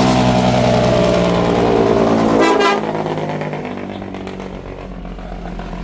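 A vehicle horn held for nearly three seconds in traffic, pitch sagging slightly before it cuts off abruptly, then engine and road noise.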